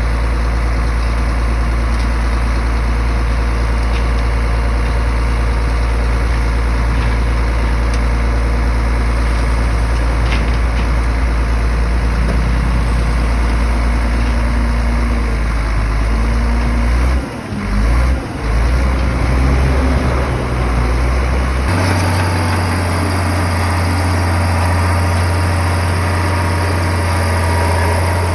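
Diesel engine of heavy earthmoving machinery running steadily with a deep drone. About two-thirds of the way in the sound dips twice, then about three-quarters of the way in it switches abruptly to a slightly higher steady drone.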